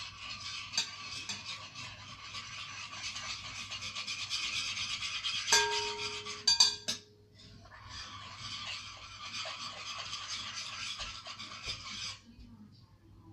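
A big spoon scraping and stirring around a bowl of homemade shampoo-and-baking-powder slime, with two ringing clinks of the spoon against the bowl about five and a half seconds in. After a short pause the scraping stirring resumes and stops shortly before the end.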